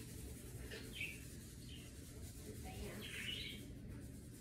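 A bird chirping: about three brief groups of short, high, falling chirps.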